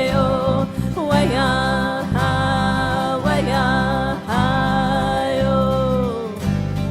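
Music: a voice sings long held notes that slide into and out of pitch, over a steady low instrumental accompaniment.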